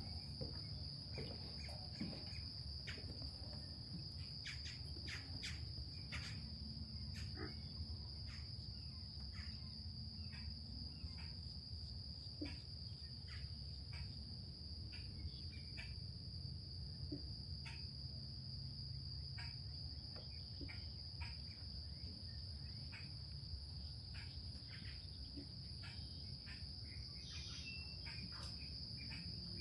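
A steady, high-pitched chorus of insects trilling without a break, with short bird chirps scattered through it and a low steady rumble underneath.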